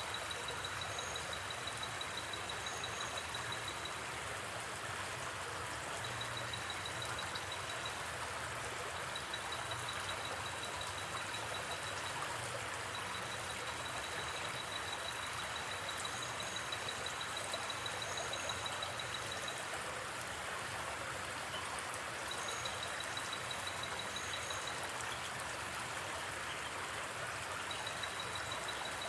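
Steady rush of a flowing river, with a high, rapidly pulsing insect trill that starts and stops every few seconds and a few faint campfire crackles.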